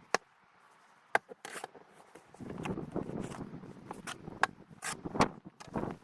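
Snow shovel working through deep snow: a few sharp strikes, the loudest about a second in, with scraping between them from about two seconds in.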